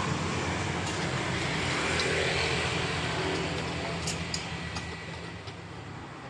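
Honda PCX 160 scooter engine running at a steady idle, easing quieter in the second half, with a few light clicks.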